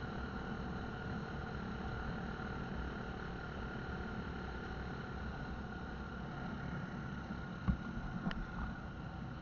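Steady running noise of a motorcycle on the move, engine hum mixed with wind rush, with a few faint knocks about eight seconds in.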